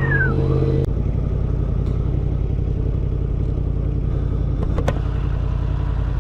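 Car engine running steadily with a low rumble, which changes abruptly about a second in. There is one sharp click a little before five seconds in.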